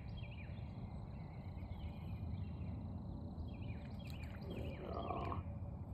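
Outdoor pond-side ambience: a bird gives short, repeated high chirps in scattered groups over a steady low rumble, with a louder, lower call about five seconds in.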